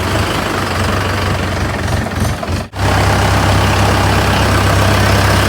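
Tractor engine running steadily, a strong low hum under a haze of noise, with a brief cut-out about two and a half seconds in.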